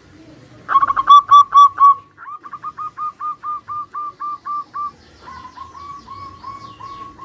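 Zebra doves (perkutut) cooing: three runs of quick, evenly repeated notes, about four or five a second, the first run loud and the next two softer.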